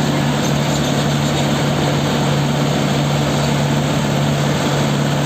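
Tractor's diesel engine running at a steady speed while driving, a constant low drone over a steady rushing noise.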